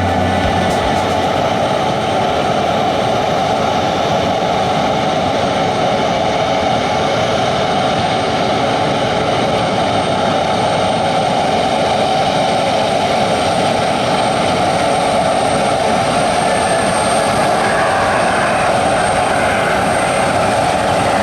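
Regional jet's turbofan engines running, a steady loud rush with a faint thin high whine.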